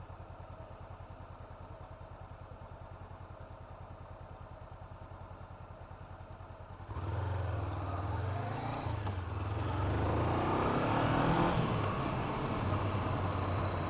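2017 Honda CB500F's parallel-twin engine idling with an even beat, then about seven seconds in it pulls away and accelerates, with wind noise building as speed rises.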